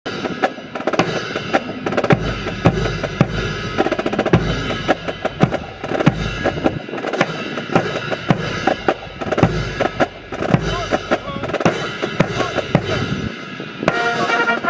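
Band music with bass drum and snare drum beating under held notes, starting suddenly, typical of a military band playing at a ceremony.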